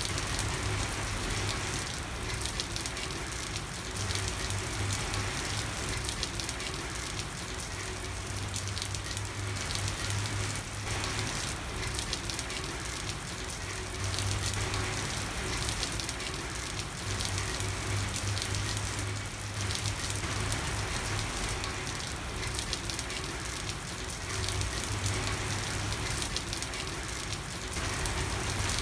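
Steady rain falling on a street: an even hiss with a dense patter of drops, and a low rumble that swells and fades every few seconds.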